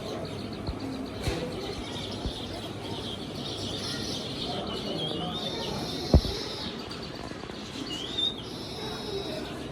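Small birds chirping and twittering in quick, high notes. A few low knocks break in, the loudest a sharp thump about six seconds in.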